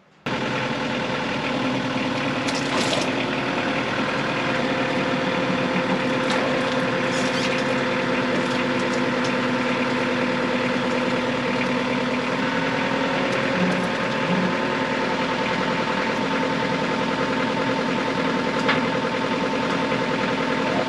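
Sawmill's engine running steadily while the log is rolled over, with a few short knocks.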